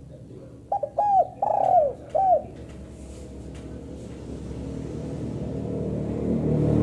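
Spotted dove cooing: one quick phrase of four arched, falling coos about a second in, the third note the longest. A hissing background noise grows louder toward the end.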